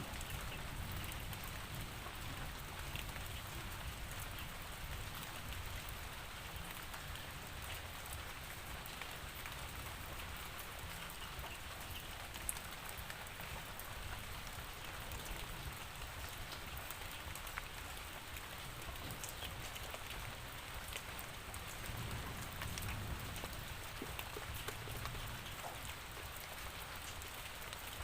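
Steady rainfall, a continuous hiss of rain with scattered individual drop ticks over a low rumble.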